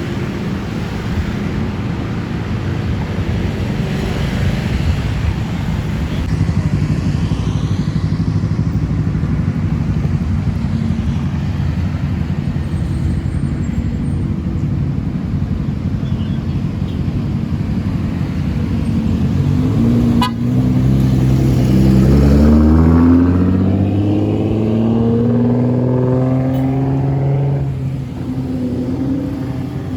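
Car engines running in street traffic, one of them accelerating about two-thirds of the way through, its pitch rising and growing louder for a few seconds before easing off.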